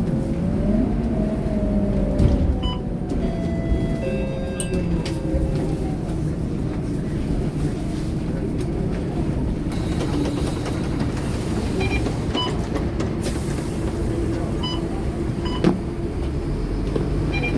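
Scania K230UB single-deck city bus heard from inside the cabin while driving: steady engine and road noise, with passengers' voices and a few short high beeps in the second half.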